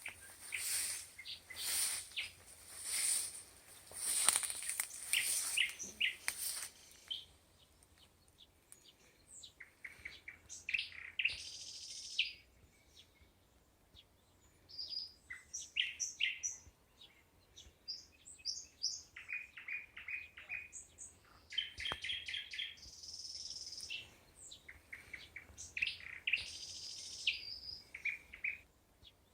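Small birds chirping and singing in short, high calls. Over the first seven seconds a rhythmic rasping pulses about once a second.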